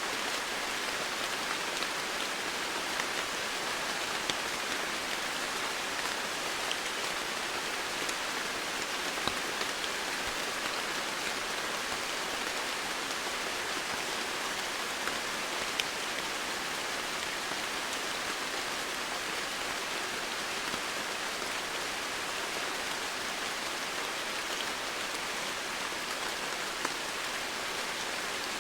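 Steady rain falling, an even hiss with scattered individual drops ticking on nearby surfaces.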